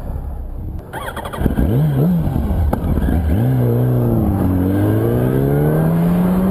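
Yamaha R1's inline-four engine under way on the bike: a short rise and fall in revs about a second and a half in, then one long, steady climb in pitch as it accelerates, over wind rush.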